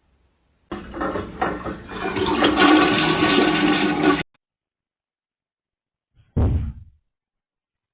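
Rushing water for about three and a half seconds that cuts off abruptly, then a short low thud about six and a half seconds in.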